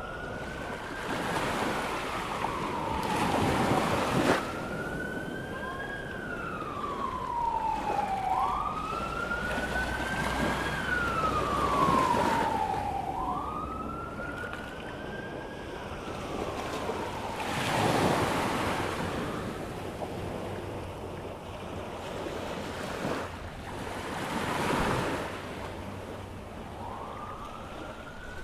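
Emergency vehicle siren wailing, slowly rising and falling in pitch about once every four to five seconds, over waves breaking on a beach. The siren fades out about halfway through and starts again near the end, while the surf keeps swelling and easing.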